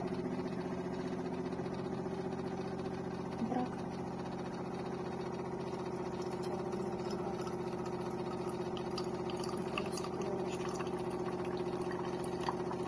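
De'Longhi TrueBrew coffee maker running: a steady electric hum held at one pitch, with faint light clicks and ticks appearing from about nine seconds in.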